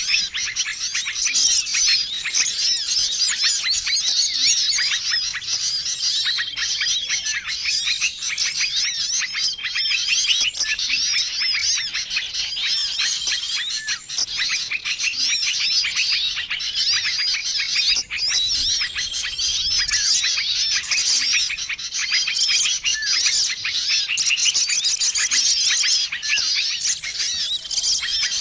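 A dense, busy chorus of many small songbirds chirping and chattering over one another: a combined bird-lure (pikat) recording for attracting small wild birds. A short level whistled note repeats every couple of seconds through the chatter.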